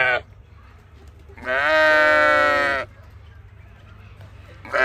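A sheep bleating: the end of one bleat at the start, one full drawn-out bleat of about a second and a half in the middle, and the next bleat beginning near the end.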